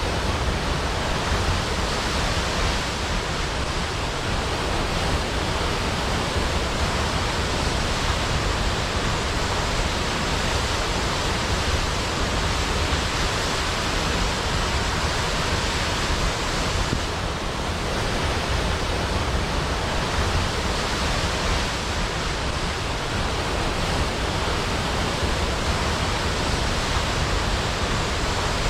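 Large waterfall cascading down a cliff into a pool: a steady, unbroken rush of falling water with a deep low rumble.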